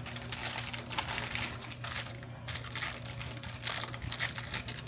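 Plastic wrapper of an Oreo cookie package crinkling irregularly as it is handled and opened.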